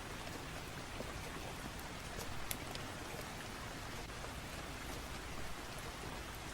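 Steady rain falling, an even hiss with a few scattered sharp ticks.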